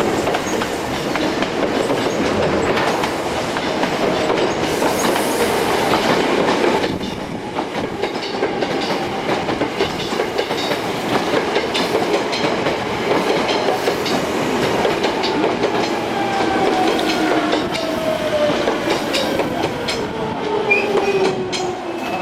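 Hankyu electric train running into a station platform, wheels clacking over rail joints. Near the end a whine falls steadily in pitch as the train slows.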